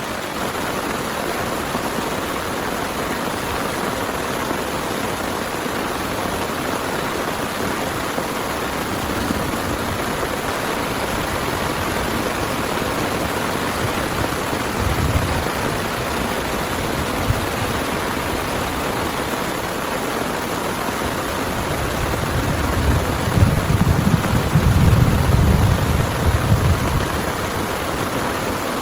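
Heavy rain falling steadily. A louder low rumble swells for about four seconds near the end.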